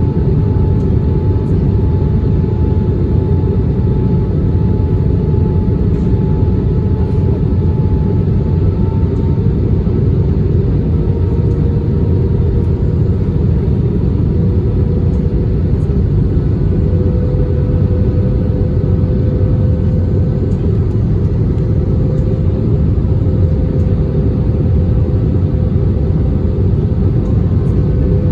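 Airbus A320 cabin noise in flight: a steady, loud, deep rush of airflow and jet engines. Faint engine tones hum above it and slowly rise in pitch through the middle of the stretch.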